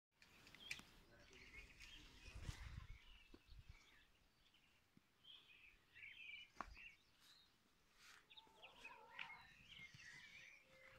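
Faint bird chirps in the background, short scattered calls throughout, with a few small clicks and a low rumble from camera handling about two and a half seconds in.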